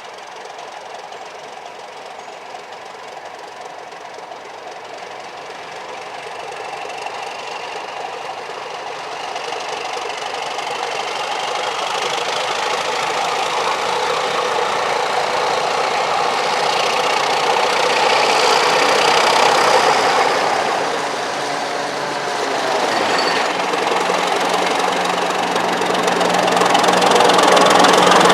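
Preserved heritage-railway train approaching, its locomotive's engine running and growing steadily louder, with a thin high wheel squeal in the second half.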